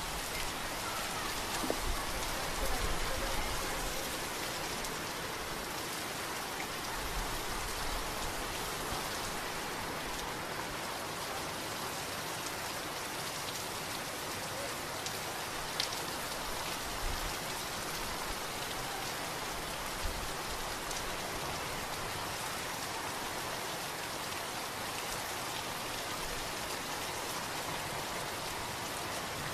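Steady, heavy rain falling and pattering on surfaces, with a few sharper single drop taps now and then.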